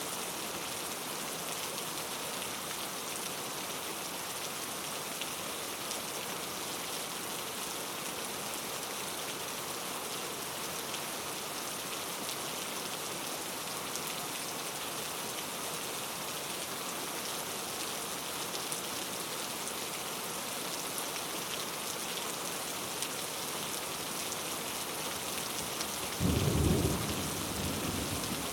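Steady heavy rain falling in an even hiss. Near the end a short, low rumble of thunder swells up and dies away over a second or two.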